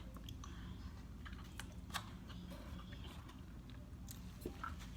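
Close-up mukbang eating sounds: a person biting into and chewing an egg, with scattered small mouth clicks and one sharper click about two seconds in.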